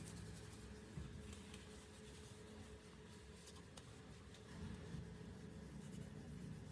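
Faint rubbing and light handling sounds of hands working on a surface, with a few soft ticks over low room tone.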